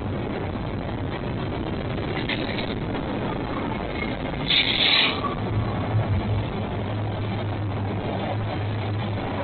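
Freight train running with a steady low rumble, broken by a brief hiss about four and a half seconds in.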